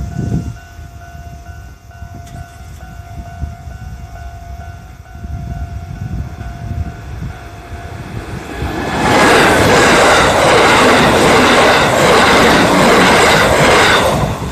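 Japanese level-crossing warning bell ringing steadily, then about eight seconds in a Kintetsu express of 8600 series and 1233 series electric multiple units passes close by, loud, its wheels clattering in a steady rhythm over the rail joints. Low wind rumble on the microphone runs underneath.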